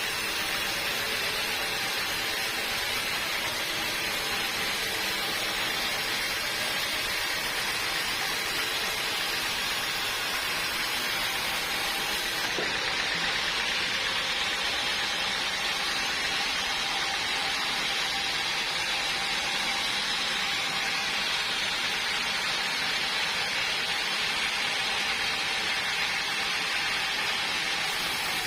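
Sawmill machinery running steadily, a continuous hiss-like whir with a faint steady hum; the highest hiss drops away about halfway through.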